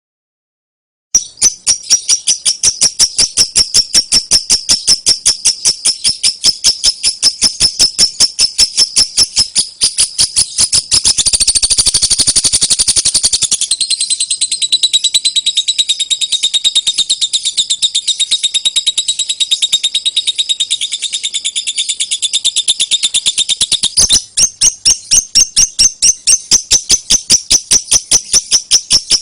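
Lovebird 'ngekek' song: a long, unbroken chatter of shrill, quickly repeated chirps at about three a second, starting about a second in. Around the middle it packs into a faster, denser run for a couple of seconds.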